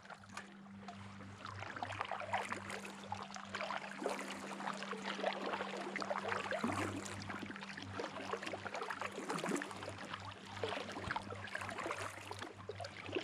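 Water splashing and dripping around a paddled boat: an irregular patter of small splashes from paddle strokes and water against the hull.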